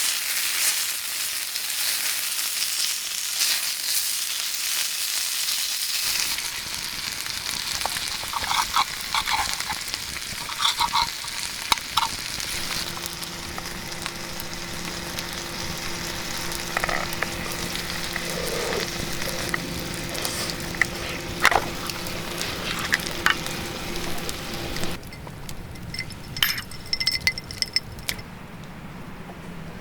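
Food frying and sizzling in a pan, with scattered clicks. The sizzle cuts off suddenly about 25 seconds in, leaving a quieter stretch with a few more clicks.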